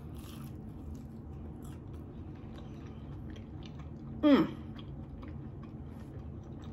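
Close-up chewing of a soft flour-tortilla chicken and cheese quesadilla: faint wet clicks and smacks of a closed mouth. About four seconds in comes a short hum, falling in pitch.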